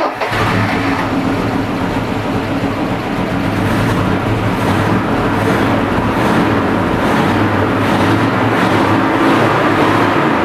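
GAZ-31012 Volga's V8 engine running steadily just after being started, on its first runs after many years laid up.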